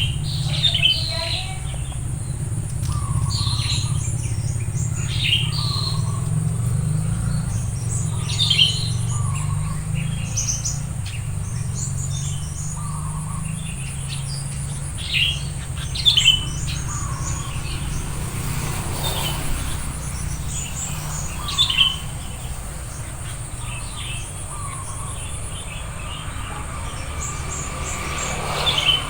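Sooty-headed bulbuls calling in short chirps every few seconds, over a steady low hum.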